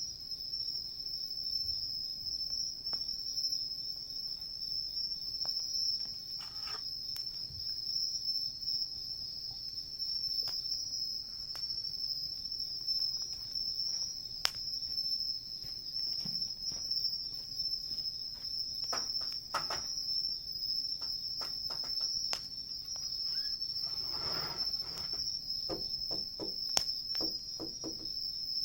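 A steady, high-pitched chorus of insects calling without a break, with scattered sharp crackles and pops from a wood campfire, coming thicker in the last third.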